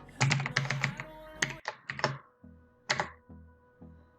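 Typing on a computer keyboard: a quick run of keystrokes, then a few single key presses spaced out toward the end.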